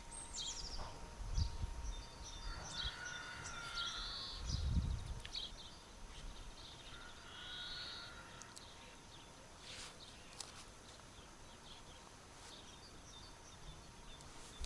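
Birds calling and chirping over quiet outdoor ambience, with two low thumps in the first five seconds.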